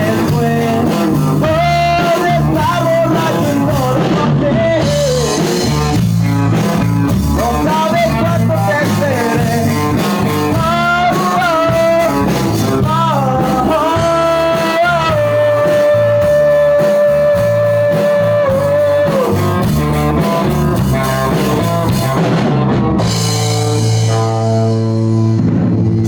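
Rock song with a sung melody over drums, bass and electric guitar; the singer holds one long note about halfway through.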